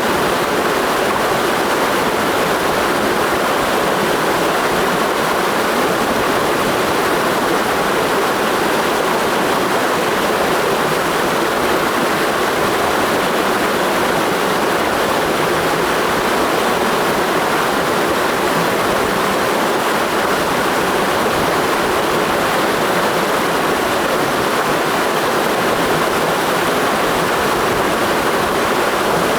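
Clear mountain stream rushing steadily: an even, unbroken wash of flowing water.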